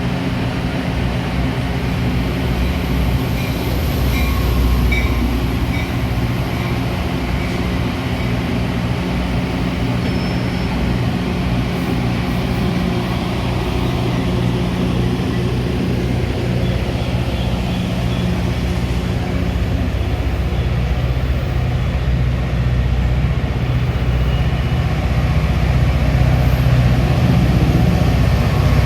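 Metra commuter train running: a steady low rumble and hum that grows a little louder in the last several seconds.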